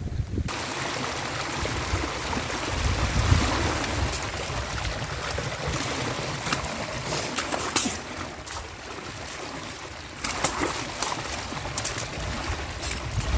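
Running stream water with strong gusty wind buffeting the microphone, and a scattering of sharp clicks and knocks.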